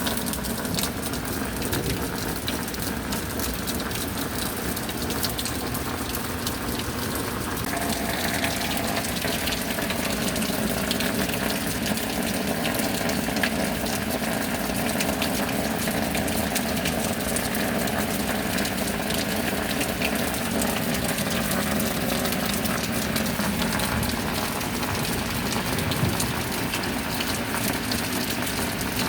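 Steady rain with water pouring and gushing, a continuous even rush that shifts slightly in tone about eight seconds in.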